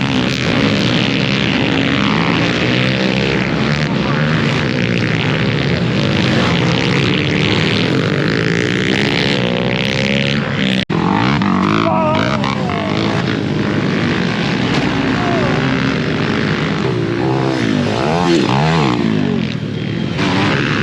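Several mini dirt bike engines racing together, revving up and down over one another as the riders work through the gears. The sound drops out for an instant about halfway through.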